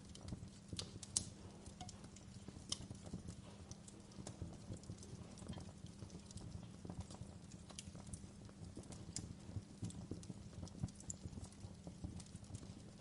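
Wood fire crackling: irregular sharp pops and snaps over a low, steady rumble of burning, the loudest pop about a second in.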